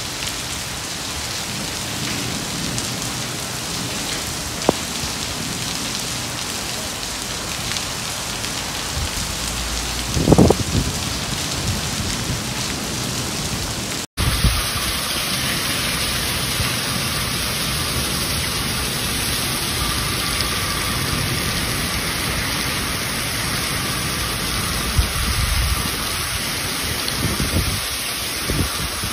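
Storm rain pouring down in a steady hiss, with a short sharp knock about five seconds in and a louder thud about ten seconds in; the recording cuts abruptly to another stretch of rain about fourteen seconds in.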